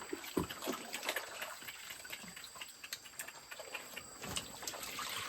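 Piglets eating wet bran mash from a feeding trough: irregular wet smacking and slurping.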